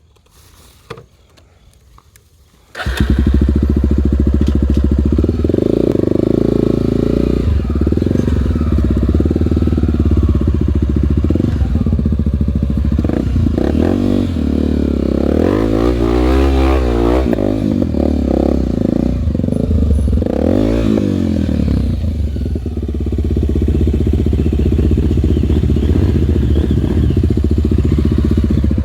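Honda trail bike's single-cylinder four-stroke engine sets in abruptly about three seconds in and runs loud, revved up and back down twice near the middle.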